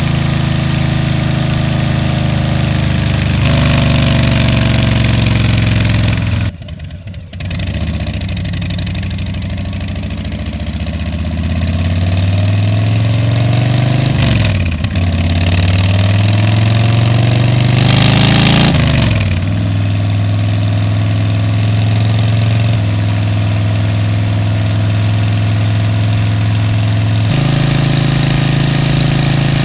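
Motorcycle engine heard through a helmet-mounted camera microphone: it runs steadily, the throttle closes briefly about six seconds in, then it pulls up through the gears, the pitch rising and dropping twice at the shifts, before settling to a steady cruise.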